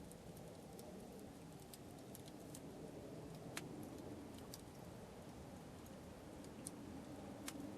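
Wood campfire crackling faintly: scattered, irregular sharp pops over a low steady rumble, with two louder pops, one about three and a half seconds in and one near the end.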